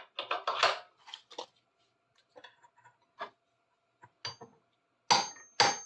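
Irregular metal clinks and knocks as a seized adjustable wrench is worked loose. The loudest strikes come near the end and ring briefly, like steel on steel.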